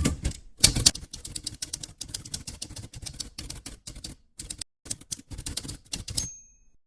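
Typewriter sound effect: rapid, irregular clacking of keys with a brief pause partway through, ending in a short high bell-like ding, then a sudden cut to silence.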